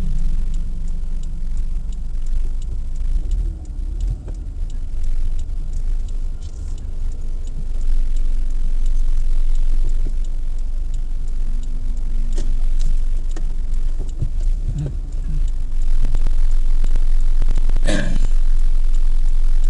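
Steady low rumble of a car driving, heard from inside the cabin, with a brief sharp knock about eighteen seconds in.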